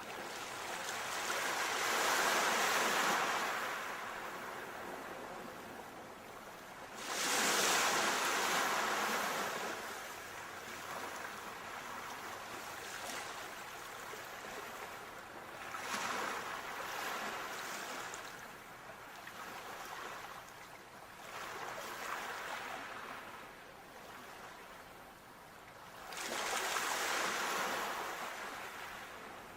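Sea waves breaking and washing onto the shore, the surf swelling and ebbing about five times, loudest near the start and about eight seconds in.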